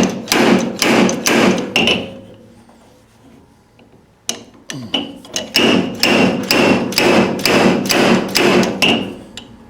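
Hammer blows on steel car-body sheet metal, working a dent: a quick run of about five ringing strikes, a pause, then about ten more at roughly two a second.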